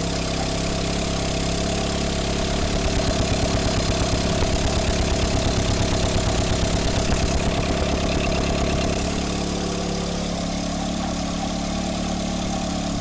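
Toyota Prius four-cylinder petrol engine running at idle with its manifold removed. It runs steadily, with a pulsing beat that grows stronger about two seconds in and eases off to a slightly quieter run about nine seconds in.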